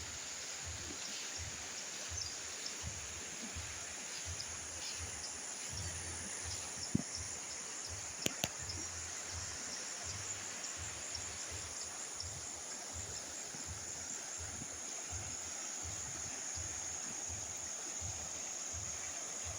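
Steady outdoor ambience: an even rushing noise with a constant high-pitched insect-like drone over it, low bumps of wind on the microphone, and two sharp clicks about eight seconds in.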